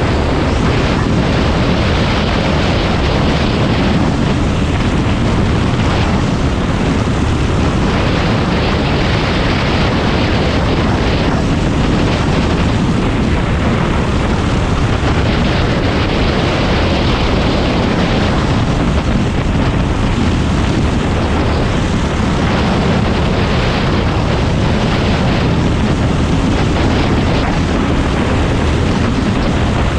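Predator 390 single-cylinder racing kart engine running hard at speed, loud and continuous, the upper part of the sound swelling and easing every few seconds as the throttle comes on and off.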